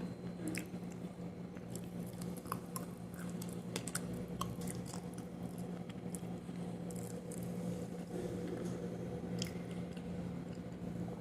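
Close-up chewing of dry baked kaolin clay, with scattered small crunches and crackles as the clay breaks up between the teeth, over a steady low hum.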